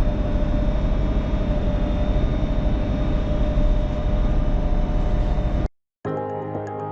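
Farm tractor engine running steadily under load, a constant low rumble with a steady hum, as it drives through snow; it cuts off suddenly about five and a half seconds in, and background music starts near the end.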